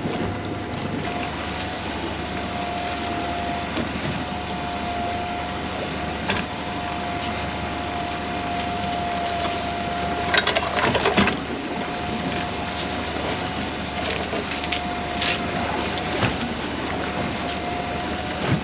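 Net being hauled aboard a small fishing boat: a steady mechanical whine that cuts out briefly a few times, with a cluster of knocks and rattles about ten seconds in and a few single knocks later.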